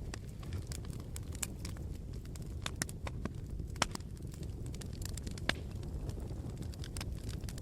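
Campfire crackling: irregular sharp snaps and pops from the burning wood, with a few louder pops in the middle, over a low steady rumble.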